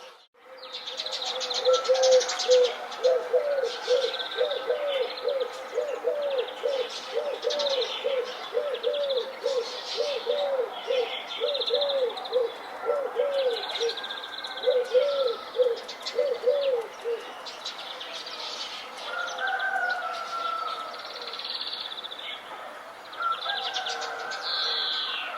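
Birdsong chorus of many high chirps and trills. For most of the first two-thirds a dove coos over it in a fast, even run of short low notes, about two a second. A brief gap near the start suggests an edit.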